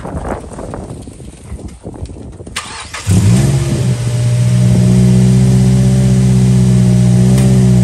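A Mazda MX-5's four-cylinder engine starts about three seconds in, revs briefly and settles into a steady idle, heard through its freshly fitted AEM cold-air intake. Before the start there are a few seconds of rustling.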